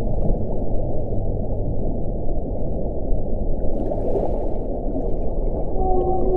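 Wind blowing steadily with a deep rushing sound, with faint low moaning tones near the start and again near the end, and a brief higher hiss about four seconds in.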